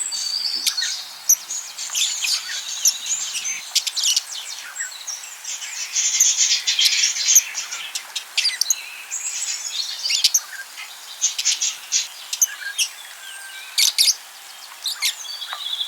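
Budgerigars chattering and warbling: a busy stream of quick, high chirps and squeaks mixed with short clicking notes.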